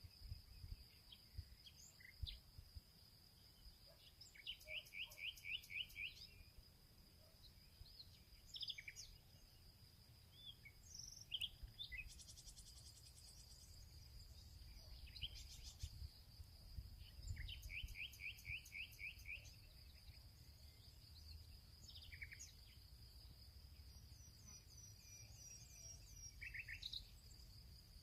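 Songbirds singing in a field: scattered chirps and short calls, with two rapid trills of about eight repeated notes, one near five seconds in and one near eighteen seconds in. Under them runs a steady high insect drone, over a low rumble of wind or ambient noise.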